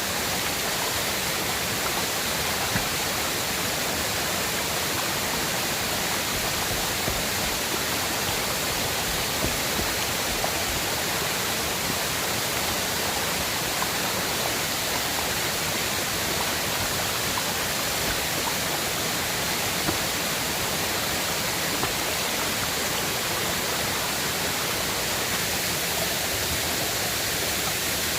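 River water rushing steadily, with a few faint clicks now and then.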